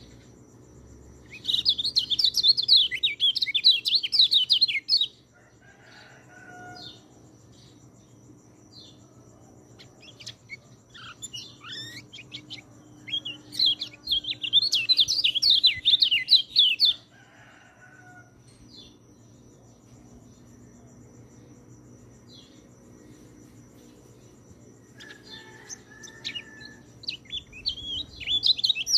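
Orange-headed thrush (peleci) singing: three long, rapid, warbling phrases, one right away, one about halfway through and one at the end, with quieter scattered notes and faint lower calls in the pauses.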